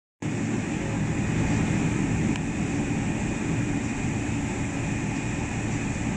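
Steady low drone of a Boeing 777-300's jet engines.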